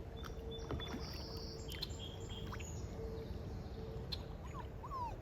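River ambience from a kayak: a steady low rush of water with a faint steady hum, over which birds chirp, giving a few short upward and downward calls near the end.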